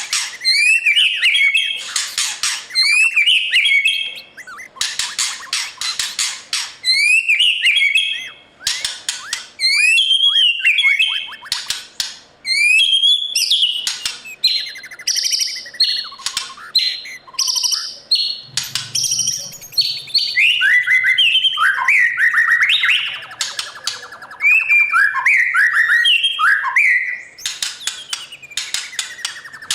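White-rumped shama singing a long, varied song: whistled gliding phrases mixed with rapid chirps, trills and sharp high notes, phrase after phrase with only short gaps.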